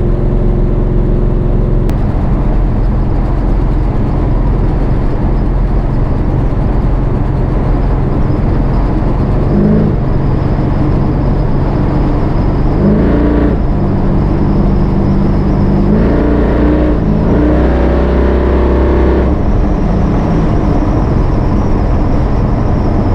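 Chevy C10 drag truck's engine running steadily under way, its pitch rising in steps several times through the middle and dropping back near the end.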